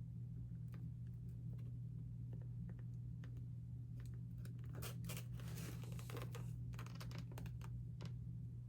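Faint scattered clicks with a stretch of rustling about five seconds in, like food packaging being handled, over a steady low hum.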